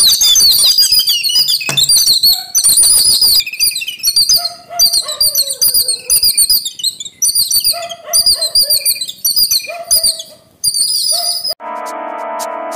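Birds calling in fast runs of shrill 'ki ki ki' chirps, in bursts with short gaps between them. Near the end the calls stop and electronic music starts.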